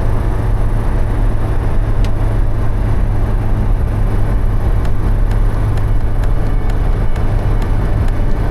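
Steady low rumble of a vehicle driving, with a few faint scattered ticks over it.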